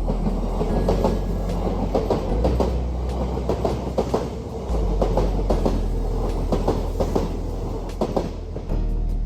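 Kintetsu Minami-Osaka Line electric train passing, its wheels clacking over rail joints at about two to three clacks a second, over a steady low hum.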